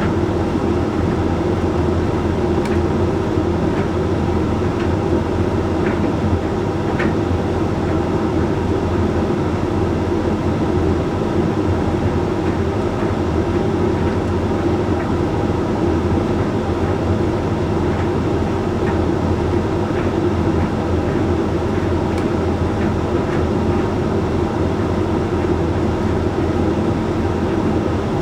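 Hoover Link X Care condenser tumble dryer running steadily mid-cycle on its Whites programme: an even motor and fan hum with the drum turning, and a few faint clicks.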